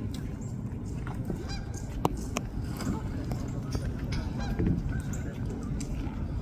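Birds calling several times over a steady low rumble, with a few sharp clicks.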